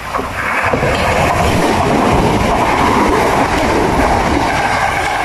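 Modern passenger train running along the station platform close by, a loud rush of wheels on rails that swells up about half a second in and holds steady.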